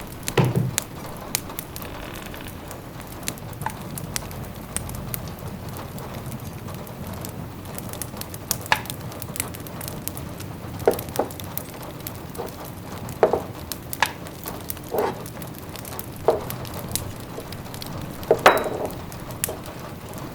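Wood fire crackling in a fireplace: a soft steady hiss with irregular sharp pops and snaps, the loudest cluster near the end.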